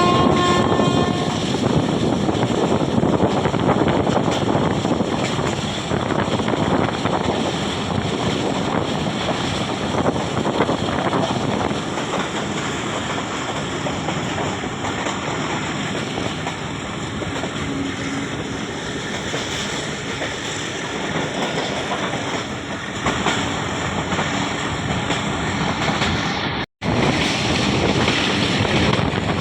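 Steady rush of a moving passenger train heard with heavy wind on the microphone, as from an open door or window; the tail of the train's horn dies away about a second in. The sound cuts out for an instant near the end.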